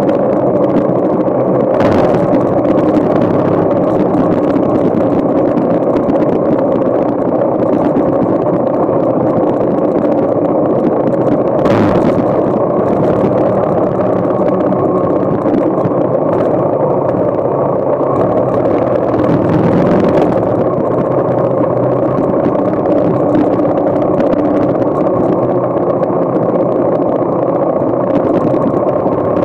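Yamaha XT motorcycle engine running steadily while riding slowly behind traffic, heard from the saddle. A few brief rushes of noise come about two seconds in, near the middle and about two-thirds of the way through.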